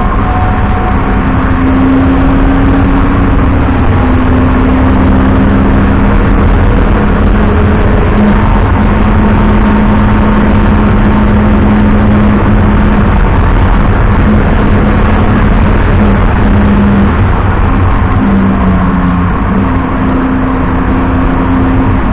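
BMW 330i E90's straight-six engine pulling under load, its pitch holding steady for several seconds at a time and then stepping up or down, over loud, constant road and tyre noise.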